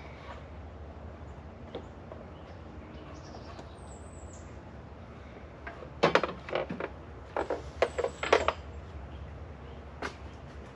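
Handling noises: a quick run of clicks, knocks and rustles about six to eight and a half seconds in, and one more click near the end, over a steady low hum.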